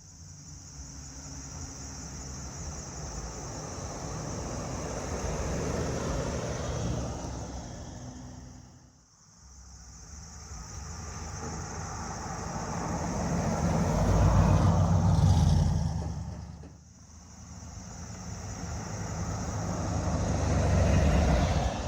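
Car engines running, in three stretches that each grow louder and then drop away: about a third of the way in, and again after about 17 seconds.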